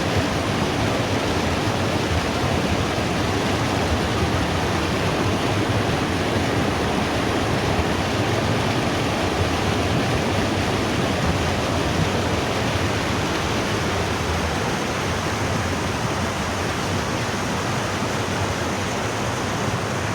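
Rushing water of the Putna mountain river, a loud, steady roar of flowing water without a break.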